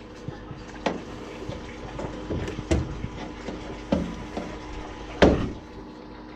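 Hands working on a furnace's pressure-switch hoses, pulling the rubber hoses off their ports: a few scattered clicks and knocks, the loudest about five seconds in, over a steady low hum.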